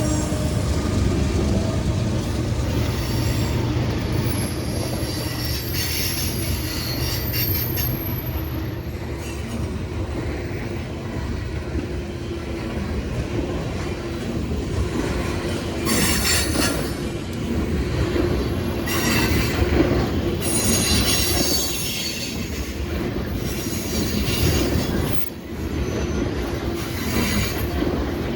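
Freight train rolling past: a steady rumble of wheels on rail, with high-pitched wheel squeal flaring up several times.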